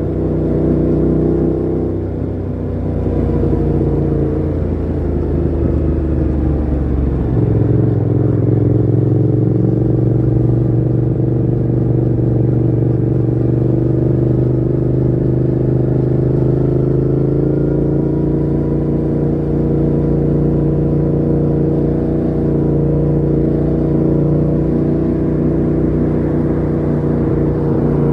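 Yamaha MT-07's parallel-twin engine running through a Mivv GP Pro full exhaust with the dB killer fitted, on the move: the revs dip about two seconds in and climb back, shift abruptly about seven seconds in, then hold a steady note that rises slowly before levelling off.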